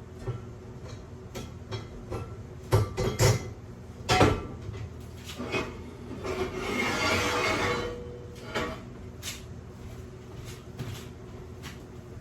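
Metal pot and kitchen utensils knocking and clattering as chicken gizzards are moved into the cooking pot. Near the middle comes a rushing pour that lasts about a second and a half.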